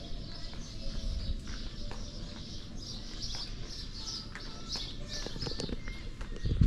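Small birds chirping again and again, over a low rumble and a few light taps.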